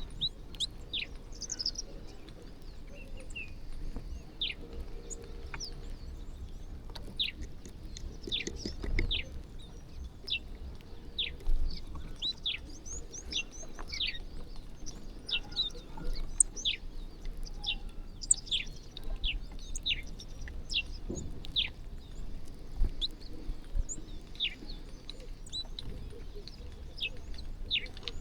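A flock of small birds chirping, many short calls that slide quickly down in pitch, overlapping densely, with a faint low rumble underneath.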